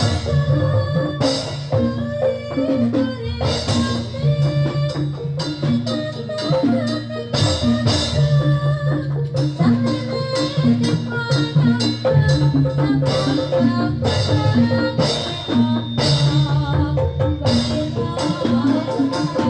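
Live gamelan music accompanying a jathilan dance. Pitched metal percussion repeats a melody over frequent drum strokes.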